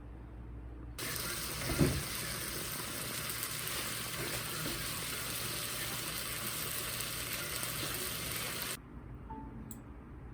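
A steady hiss that starts abruptly about a second in and cuts off abruptly near the end, with one low thump shortly after it begins.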